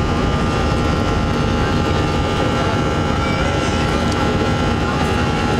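Airliner jet engines running steadily at takeoff power: a constant wash of engine noise with several steady whining tones layered over it.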